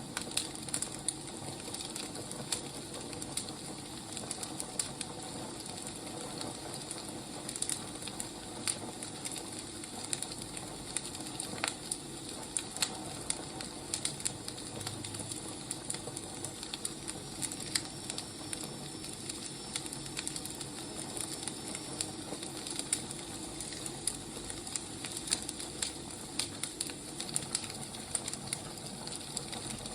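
Wood fire crackling: irregular sharp pops and snaps over a steady hiss of burning logs.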